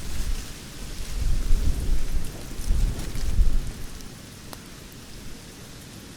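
Campfire burning, with sparse sharp crackles and pops over a low rumble that swells several times in the first four seconds and then settles.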